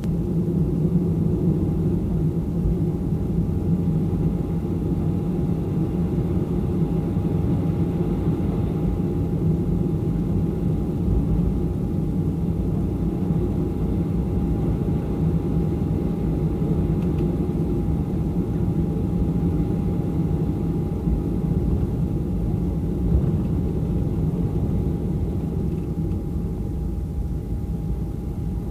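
Cabin noise inside a taxiing Boeing 737: a steady low rumble from the jet engines at taxi power and the rolling airframe, with a thin steady whine above it.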